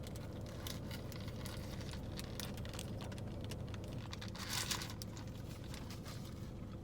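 Food packaging crinkling and clicking as a pulled pork sandwich is handled and bitten into, with a longer, louder rustle about four and a half seconds in, over a steady low hum.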